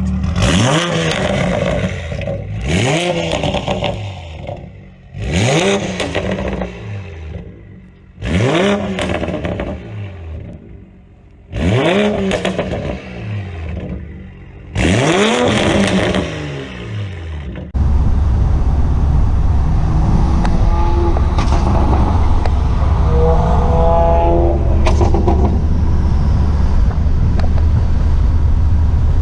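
2020 Toyota Supra's straight-piped exhaust with a catless downpipe, valves open, revved about six times, each rev rising sharply in pitch and dropping back to idle. About 18 seconds in it gives way to a steady, loud, deep drone.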